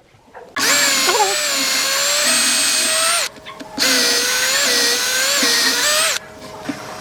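Handheld electric power tool, drill-like, run in two bursts of about two and a half seconds each with a brief stop between. Its motor whine wavers and dips in pitch as it takes load in the wood.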